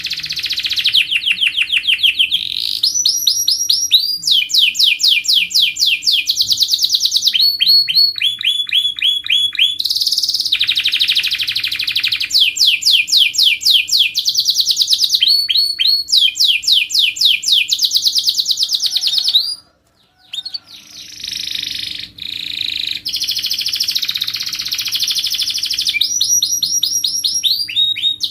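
Domestic canary singing a long, continuous song of rapid trills: each phrase is a fast run of one repeated note, and the note changes every second or two. The song breaks off briefly about two-thirds of the way through.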